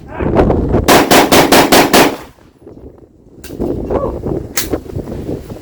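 A 9mm Glock 17 pistol fired in a fast bill drill: a rapid string of about six shots in just over a second, followed near the end by one more shot. Wind rumbles on the microphone.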